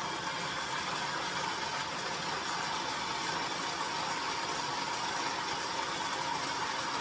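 Electric blender running steadily, puréeing chopped vegetables with water.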